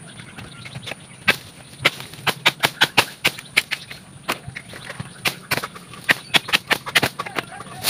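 Twigs and branches snapping and crackling in quick, irregular sharp clicks, several a second.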